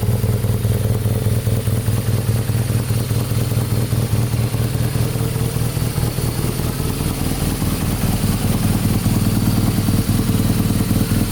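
BMW R nineT G/S's 1170 cc air/oil-cooled boxer twin engine running steadily at a constant speed, without revving.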